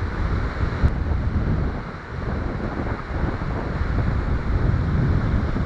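Wind buffeting the microphone in gusts, with the wash of ocean surf under it.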